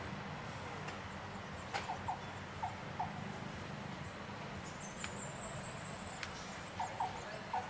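Short, high chirping calls in two clusters, a few at a time, over a steady low hum, with a thin high-pitched whine held for about a second midway.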